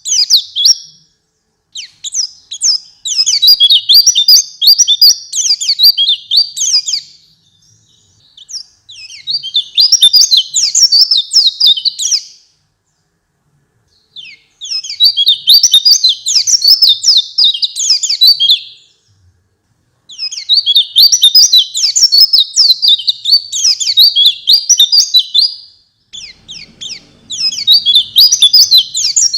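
White-eye (pleci) singing: fast, high, twittering song phrases of a few seconds each, broken by short pauses of a second or two.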